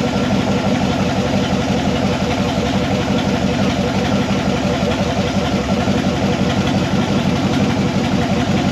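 1976 Corvette's 350 small-block V8 idling steadily, with the freshly rebuilt air-conditioning system switched on and running.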